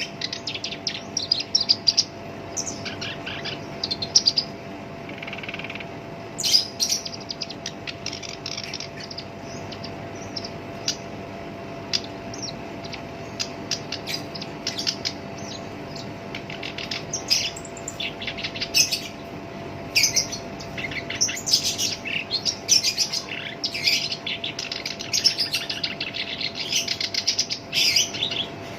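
Black-browed reed warbler singing in its rough, harsh voice: fast scratchy chattering phrases, thinning to scattered notes in the middle and then busy again. A faint steady hum runs underneath.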